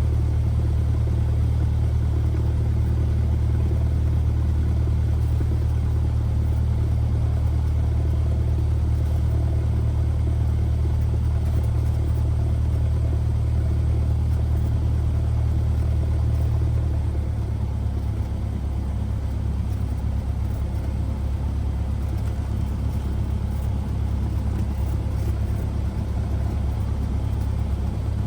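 Cessna 172R's four-cylinder piston engine and propeller droning steadily in the cockpit while taxiing. About two-thirds of the way through, the drone drops slightly lower and quieter as power is eased back, then holds steady.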